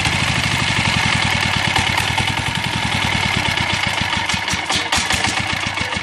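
Diesel engine running with a steady beat of firing strokes, which slow noticeably over the last two seconds.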